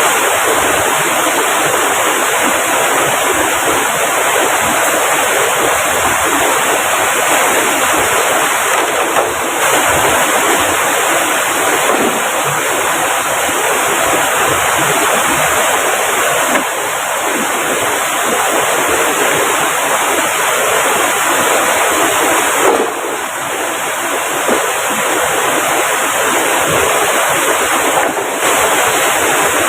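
River water rushing over boulders: a loud, steady rush with no let-up.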